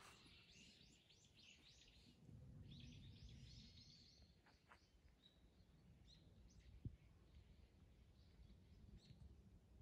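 Faint chirping of small birds in woodland: quick runs of short high calls in the first few seconds, then sparser chirps, with a single soft click near the middle.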